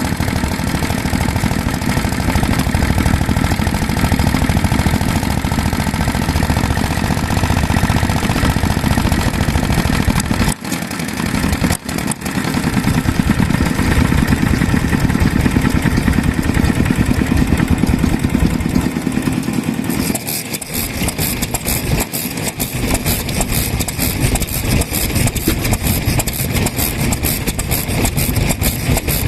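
Vintage stationary petroleum (kerosene) engines running with a rapid, even exhaust beat. The sound breaks off briefly about ten seconds in and changes character about twenty seconds in, as from one engine to another.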